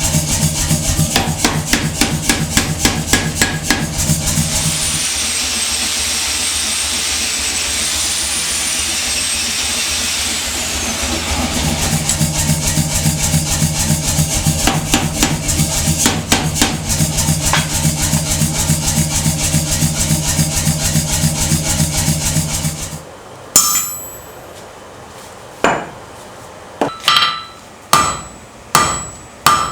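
Power hammer running and striking hot steel in a fast, even run of blows over the steady hum of its motor. It stops suddenly about three quarters of the way through. Then come single ringing hand-hammer blows on steel, about one a second.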